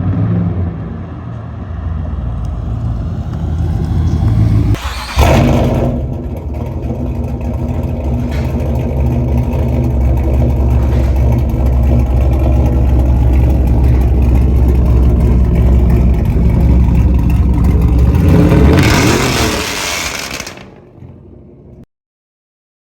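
Cammed 5.3-litre LS4 V8 of a 2008 Chevrolet Impala SS through a full 3-inch straight-pipe exhaust, running under load. It climbs, breaks off for an instant about five seconds in, then holds a loud steady drone. It swells again near the end, then fades out.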